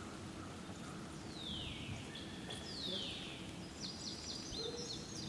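Bird calls over steady outdoor background noise: two falling, whistled notes, then a quick run of short, very high notes near the end.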